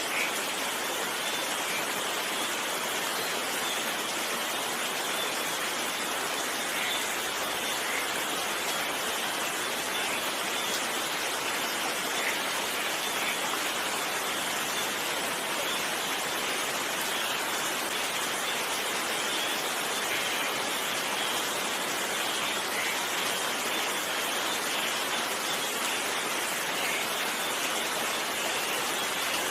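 Steady rain, an even hiss with faint scattered drops and no thunder.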